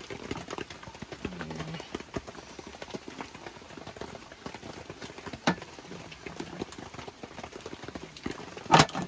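Rain drops pattering steadily on a tent or tarp, many small taps. There is a sharper knock about five and a half seconds in and a louder sharp sound near the end.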